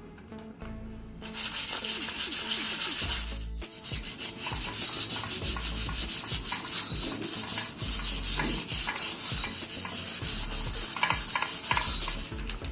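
Sandpaper being rubbed by hand along a stainless-steel motorcycle exhaust header pipe in quick, even back-and-forth strokes, scouring off heat discoloration. The strokes start about a second in and pause briefly around three and a half seconds.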